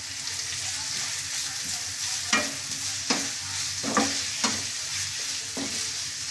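Onions and onion paste frying in oil with a steady sizzle in a non-stick frying pan, stirred with a wooden spatula that knocks and scrapes against the pan about six times from about two seconds in.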